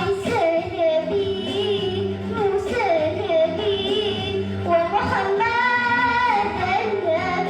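A child's voice chanting in Arabic religious style, holding long notes with sliding, ornamented turns up and down, over a steady low hum.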